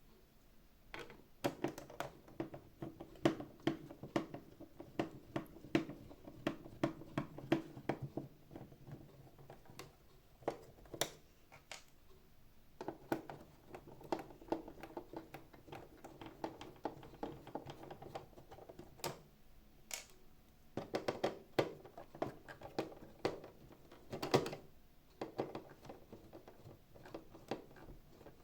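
Irregular clicks and taps of small tools and plastic housing parts being handled, unscrewed and unclipped during disassembly of a robot vacuum cleaner, with stretches of a low steady hum beneath.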